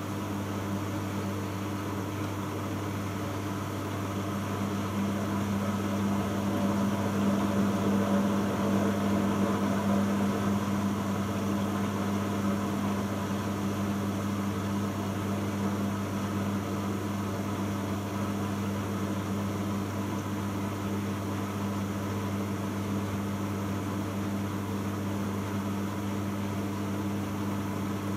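Bosch Logixx washing machine on its intermediate spin at 1000 rpm: the drum spinning with a steady motor hum, swelling slightly a few seconds in and then holding even.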